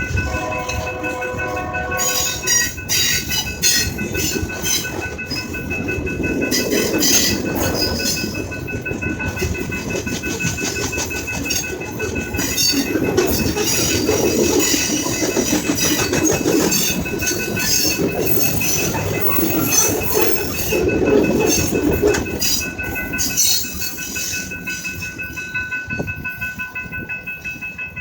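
A train passing. Its horn sounds a held chord that ends about two seconds in, then the wheels clatter over the rail joints, with a steady high ringing tone running along under them until near the end.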